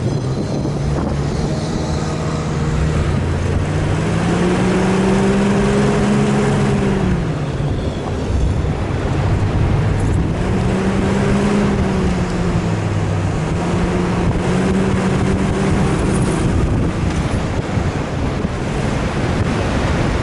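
A 4x4's engine revving up and easing off in two long surges over a steady rush of wind noise.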